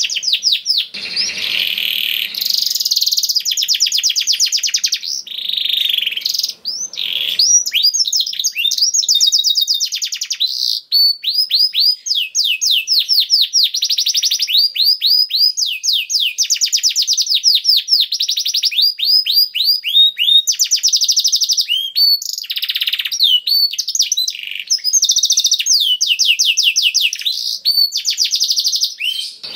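Domestic canary singing a long, continuous song of rapid trills. Each trill is a quick run of repeated downward-sweeping notes, and the bird switches to a new trill every few seconds, with a couple of rougher, buzzier phrases near the start.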